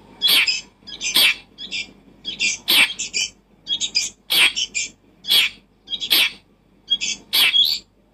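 A small animal calling over and over: short, high-pitched, raspy chirps in quick clusters, one cluster about every second.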